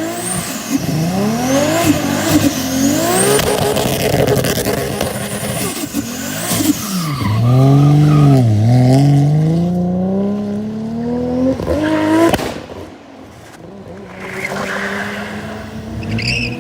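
Modified car engines revving hard several times, the pitch climbing and falling, with one long steady climb in the middle. High squealing tones sound over the first few seconds, and the engine sound drops to a quieter running level about three quarters of the way through.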